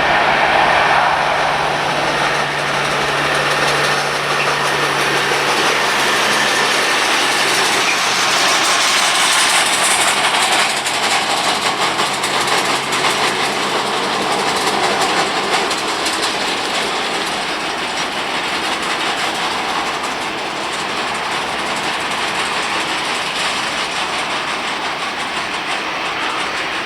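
Jet engines of an Airbus A330-243F, Rolls-Royce Trent 700s, running with a loud steady noise that slowly fades over the second half.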